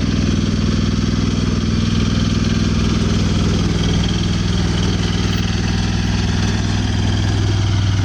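Off-road vehicle engine running steadily at low revs, as when crawling over trail obstacles.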